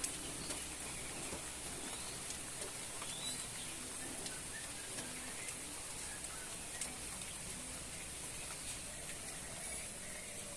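Light rain falling steadily, with faint bird chirps now and then.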